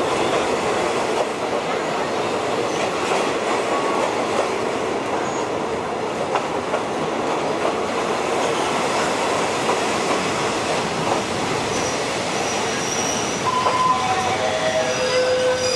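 Passenger train rolling slowly through a station, heard from an open carriage window: a steady noise of wheels and running gear on the rails. Near the end a few brief tones step down in pitch.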